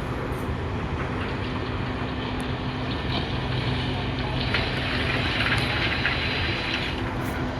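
An engine running steadily at a constant speed. A burst of hissing noise rises over it for about two and a half seconds in the second half.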